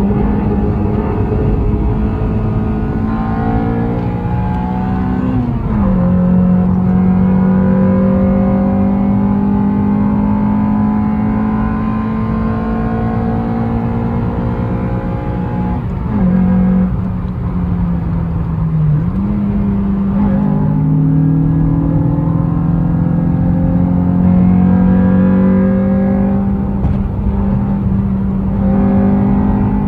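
Car engine running hard under load on a spirited uphill drive. Its note holds mostly steady, then drops and climbs again a few times, as at gear changes or lifts for corners.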